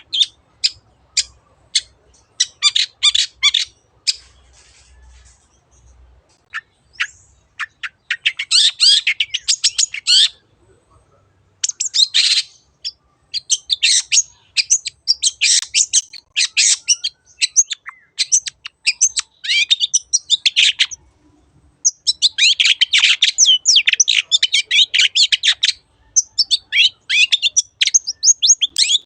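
Long-tailed shrike (cendet) singing: a few scattered sharp notes at first, then long runs of rapid, chattering notes in bursts of a few seconds with brief pauses between.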